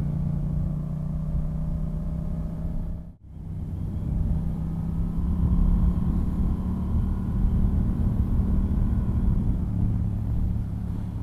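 2015 Yamaha FZ-07's 689 cc parallel-twin engine running steadily under way, fitted with a DNA Stage 2 air filter, heard from the rider's helmet with wind rush over it. The sound briefly drops away about three seconds in and then comes back.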